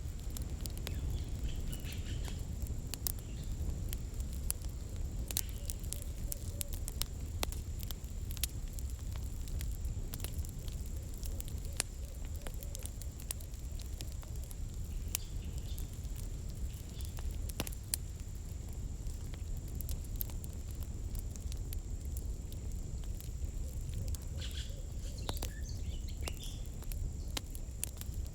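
Wood campfire crackling, with irregular sharp pops and snaps over a steady low rumble of burning. A thin high tone holds throughout, and faint chirps come near the start and again near the end.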